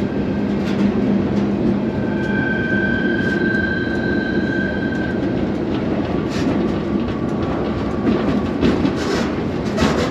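Freight train rolling, heard from aboard a car: a steady rumble of wheels on rail, with a high wheel squeal from about two to five seconds in, then a run of sharp clicks and knocks.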